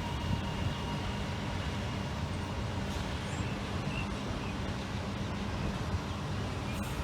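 Comeng electric suburban train running steadily, a continuous rumble with a low hum underneath.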